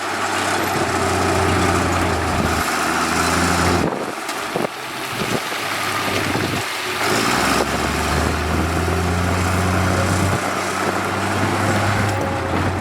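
Heavy diesel construction machinery running with a steady low engine note. The note breaks off and changes twice, about four seconds in and again near seven seconds.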